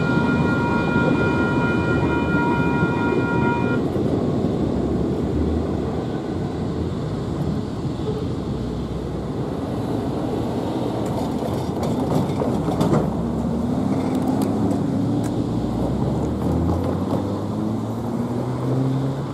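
Diesel locomotive horn sounding a steady multi-note chord that cuts off about four seconds in, over the continuous rumble of a train rolling past. In the last several seconds an engine note climbs slowly in pitch.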